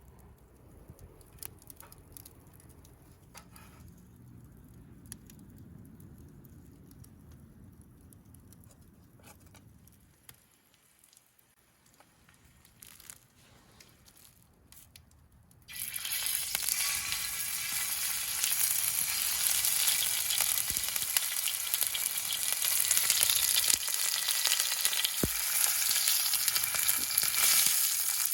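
Food frying in a hot pan on a campfire, starting suddenly about halfway through and then sizzling steadily. Before that it is quiet, with a faint low rumble and a few light clicks.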